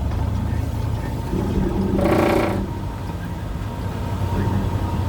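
Steady low drone of a car's engine and road noise heard from inside the moving car. About two seconds in there is a brief, louder sound with a buzzy tone, lasting about half a second.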